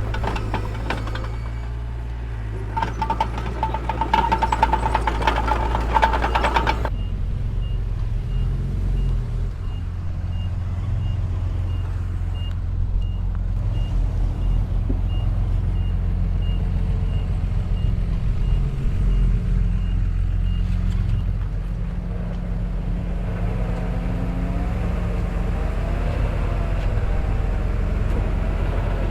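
Heavy diesel earthmoving machinery at work: for the first several seconds, dense metallic clatter with a ringing tone. About seven seconds in it changes suddenly to a steady low diesel engine drone with a reversing alarm beeping about twice a second for roughly fourteen seconds. Near the end the engine note rises and falls.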